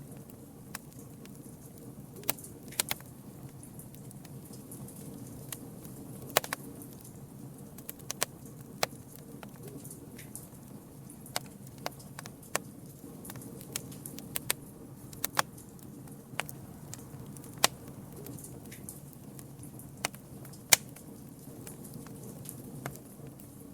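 Wood campfire crackling: irregular sharp pops and snaps, about one a second and some much louder than others, over a low steady rumble of the flames.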